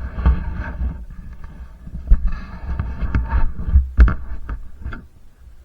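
Two-stroke dirt bike engine running under throttle with heavy low rumble and buffeting, punctuated by several sharp knocks. It dies down about five seconds in.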